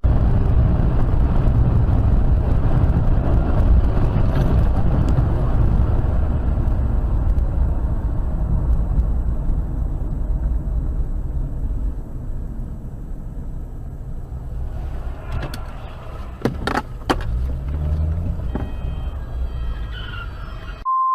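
Car driving, heard from inside the cabin on a dashcam: steady engine and tyre noise that eases off about halfway through as the car slows, with a few sharp knocks near the end.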